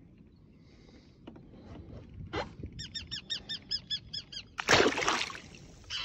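A bird calls a quick series of about ten short, arched notes, about five a second. Near the end comes a brief loud splash as a flounder is dropped back into the water.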